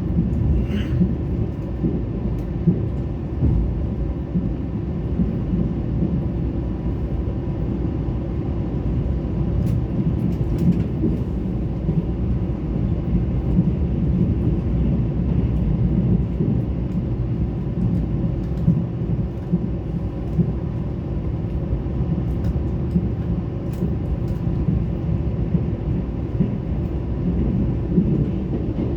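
Mugunghwa-ho passenger train running, a steady low rumble with faint light clicks here and there.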